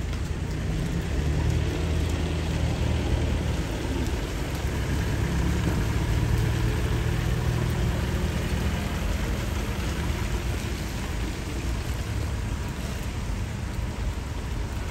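Steady rain falling, with the low hum of a motor vehicle engine running underneath.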